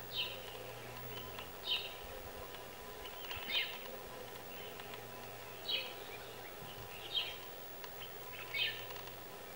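A bird repeating a short, high call that falls slightly in pitch, six times, every second and a half or so.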